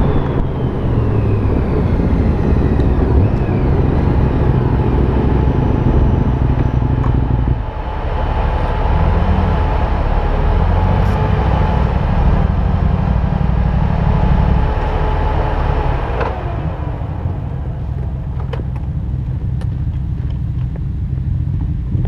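A motorcycle riding at road speed: steady engine rumble mixed with road and wind noise. A whine falls in pitch over the first few seconds, the sound changes abruptly about seven seconds in, and it eases off somewhat after about sixteen seconds.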